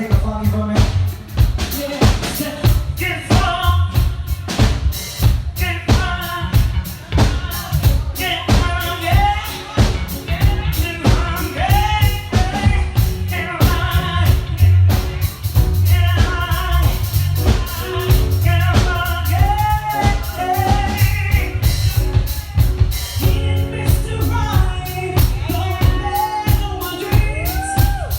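Live R&B band playing: drum kit with a steady beat of bass drum, snare and rimshot, a bass line underneath, and a singer holding and bending sustained melodic notes over it.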